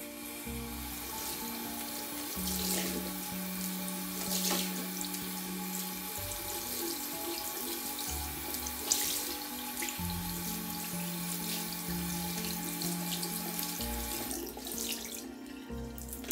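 Water tap running into a sink, with a few light knocks as something is handled under the stream; the water is shut off near the end.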